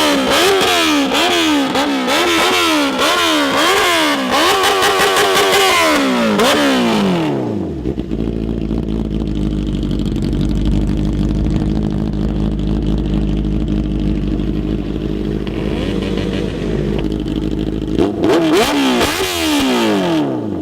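Benelli TNT 600's inline-four engine through an SC Project exhaust, revved in quick repeated throttle blips for about six seconds, then dropping back to a steady idle for about ten seconds. It revs up again a few times near the end.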